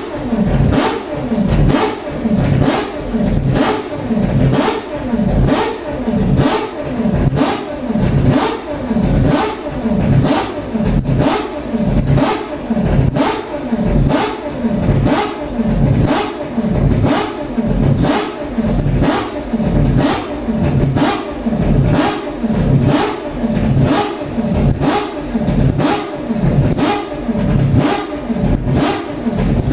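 Mazda 787B's R26B four-rotor rotary racing engine running loud, its note swelling and falling in an even rhythm of about one and a half pulses a second throughout.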